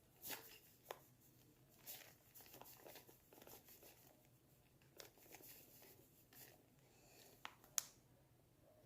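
Faint scraping and light clicks of a spoon scooping and levelling a dry baking ingredient, with one sharper click near the end.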